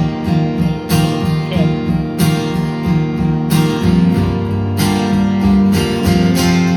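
Live acoustic guitar strummed in a steady rhythm, playing a song's intro, recorded from the audience.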